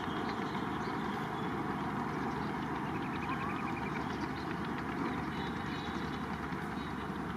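Steady mechanical rumble of an Indian Railways train.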